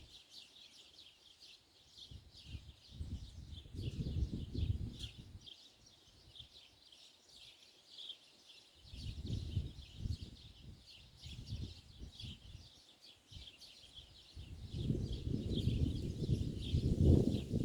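A flock of small birds chirping together in a dense, continuous chatter. Three spells of low rumble, like wind gusting on the microphone, come and go over it, the longest and loudest near the end.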